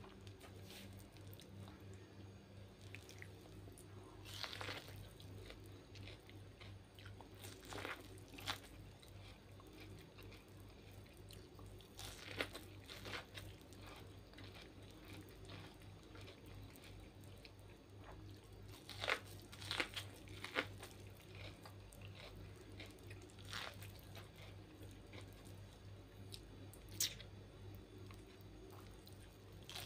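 Biting kernels off a cob of boiled corn and chewing them: scattered crisp crunches and mouth clicks, with a burst of several bites about two-thirds of the way through. A steady low hum runs underneath.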